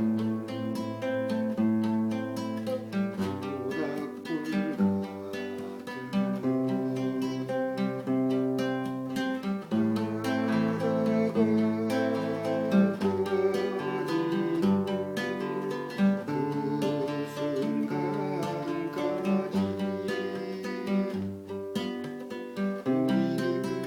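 Acoustic guitar playing an instrumental tune, with picked and strummed chords.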